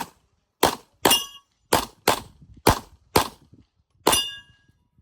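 Rapid semi-automatic gunfire in a shooting-sport stage: about eight shots, roughly two a second, with a brief pause before the last. Two of the shots are followed by the short ring of a steel target being hit.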